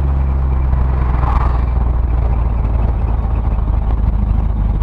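A 1977 Ford Ranchero GT's 351 Windsor 5.8-litre V8 running under way, with a steady low rumble mixed with road noise.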